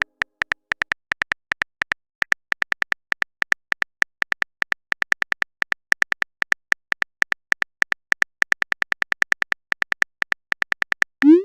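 Rapid, even run of short, high-pitched typing ticks, about five a second, from a texting-story app as a message is typed out. Near the end comes a short rising swoop, the app's message-sent sound.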